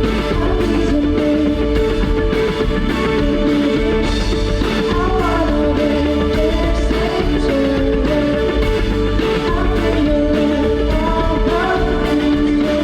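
A rock band playing live through a PA: bass and drums under steady held guitar chords, with a melody line wavering above them.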